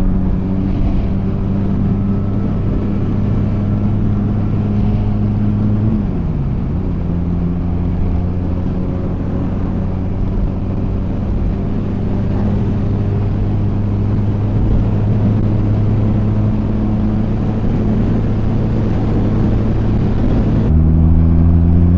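Honda Rebel 250's twin-cylinder engine running steadily under way, heard from the motorcycle. Its note dips briefly and recovers about six seconds in, and falls away at the very end.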